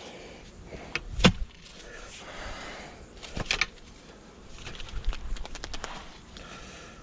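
A digging tool jabbing and scraping in a sandy post hole. It strikes a buried stone with one sharp knock a little over a second in, then gives more scattered strikes and quick clicks.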